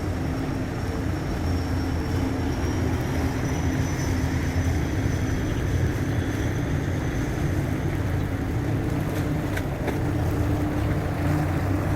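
Low, steady engine drone of a passing container ship and its tug.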